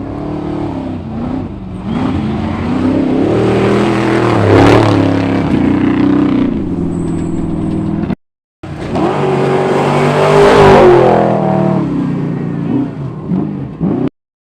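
Trophy Truck desert race trucks passing at full throttle, twice. Each engine's pitch and loudness rise as it approaches, peak, then fall away as it goes by, with a sudden cut between the two passes about eight seconds in.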